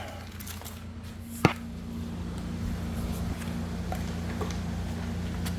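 A single sharp click about a second and a half in, with a steady low hum starting at the same moment and running on, over a constant low rumble.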